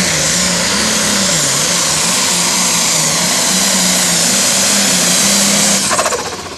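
Turbocharged diesel engine of an International super stock pulling tractor running flat out under load on a pull, its pitch wavering up and down. The engine drops off suddenly near the end, as the pull finishes.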